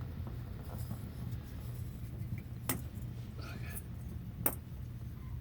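Hand work on the fuel filter's lines and plastic fittings: two sharp clicks, one near the middle and one toward the end, with faint rustling between them, over a steady low hum.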